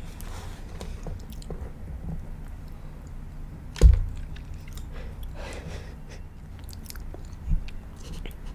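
Close-miked chewing of sushi and sashimi, soft wet crackles over a steady low hum. A sharp loud knock about four seconds in, and a smaller one near the end.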